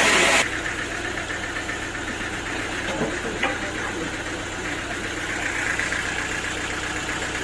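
A sawmill's loud cutting noise cuts off suddenly about half a second in. The mill's engine keeps running steadily at idle, with a single sharp tick a few seconds later.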